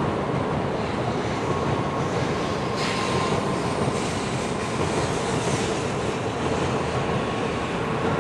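N700 series Shinkansen train passing on an elevated track: a steady running rumble of wheels on rail with a faint steady tone, and a brighter hiss rising about three seconds in and fading a few seconds later.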